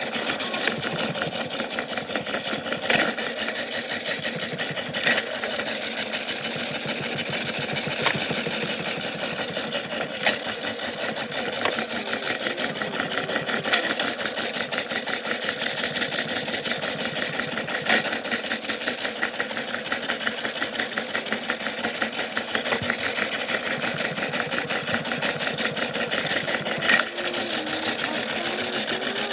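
Washing machine running with a steady motor whir, a fine rapid rattle and a high whine, with a handful of sharp knocks at irregular intervals from a big rock tumbling inside.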